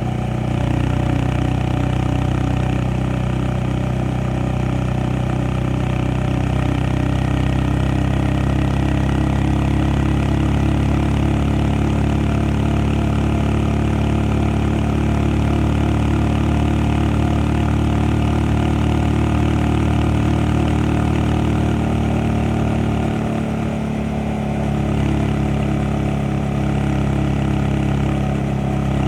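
Honda Monkey 125's single-cylinder four-stroke engine running at a steady pitch, with a brief dip in level a little over three-quarters of the way through.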